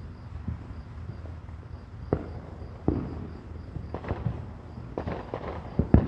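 Fireworks going off: scattered sharp bangs, a few single ones and then a quicker cluster in the last second or so, the loudest just before the end.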